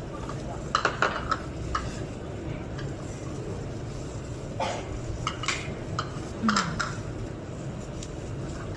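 Tableware clinking at a hotpot meal: a dozen or so short sharp clinks of utensils against bowls and dishes, in small clusters about a second in and again in the middle, over a steady low background noise.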